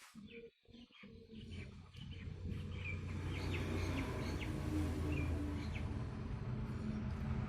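A motor running with a steady low hum that grows louder from about two seconds in, while birds chirp briefly over it.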